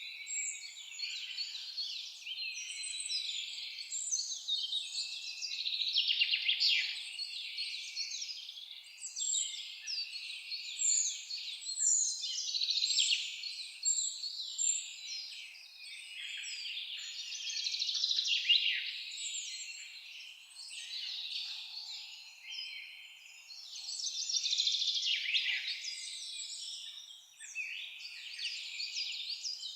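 A dense chorus of many songbirds singing at once: overlapping high chirps, rapid trills and short whistles that swell and fade.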